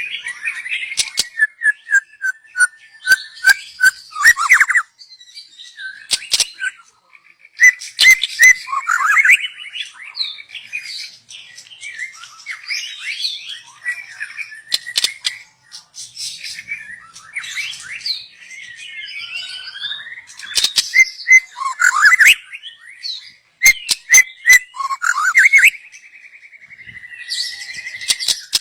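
Young white-rumped shama singing: varied whistled phrases and runs of quick repeated notes, mixed with sharp clicks and broken by short pauses.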